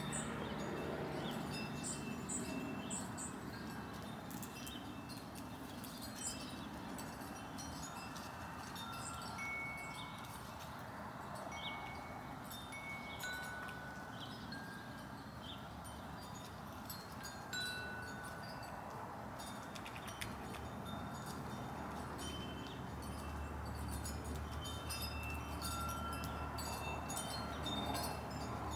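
Wind chimes ringing scattered single notes at several different pitches, with brief high bird chirps now and then.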